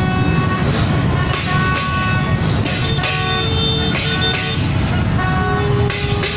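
A dense convoy of motorbikes running, with horns tooting in held notes over the engine rumble.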